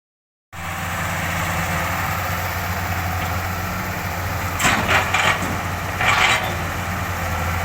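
Caterpillar 311D excavator's diesel engine running steadily at idle, with three short noisy bursts about four to six seconds in.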